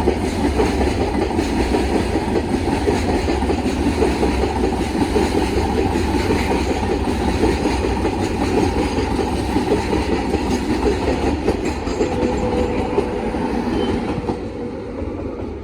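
Freight train wagons rolling past on the rails, a steady clattering of wheels on track that fades near the end.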